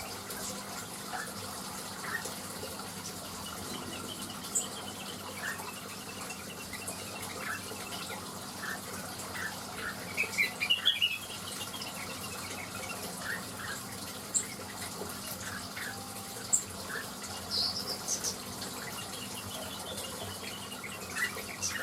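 Leafbird (cucak wilis) chirping in short scattered notes, with a quick burst of song about halfway through and a few thin high notes. Behind it runs a steady rushing background.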